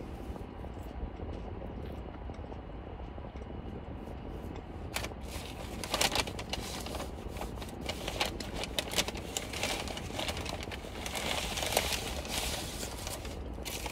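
Chewing crunchy French fries close to the microphone: irregular crisp crackles and clicks that start about five seconds in and keep on, over a steady low hum.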